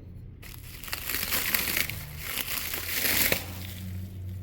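Packaging material being crumpled and handled during unboxing, a dense crinkling rustle that lasts about three seconds, over a steady low hum.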